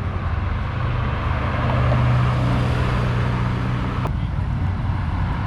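Car engine running with a steady low drone over street noise, a little louder around two seconds in, then cutting off abruptly about four seconds in.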